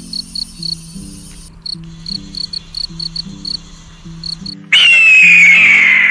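Background music under rapid, high, insect-like chirping in short pulses, like a cricket. Near the end a much louder screech starts suddenly and slowly falls in pitch for about two seconds.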